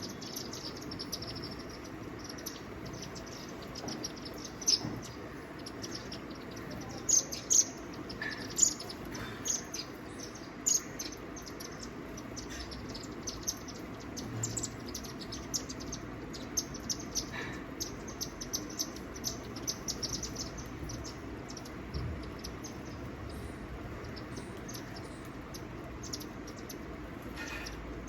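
Small birds chirping: many short, high chirps in irregular clusters, busiest and loudest in the first half, over a steady low background hum.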